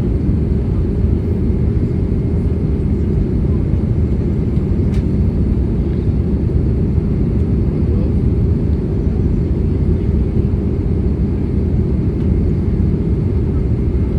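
Steady low rumble of an Airbus A320neo's engines and airflow, heard from inside the passenger cabin during descent.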